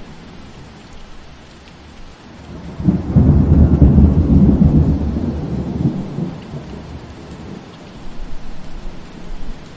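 Steady rain falling through trees, with a loud low rumble of thunder that swells up about three seconds in and dies away over the next three seconds.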